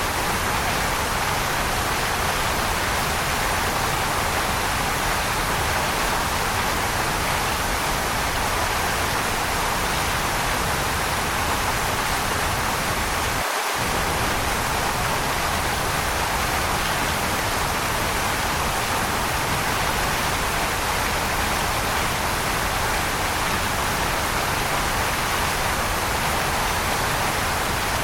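Waterfall rushing in a steady, unbroken hiss, strongest in the middle range. About halfway through, the low rumble drops out for an instant.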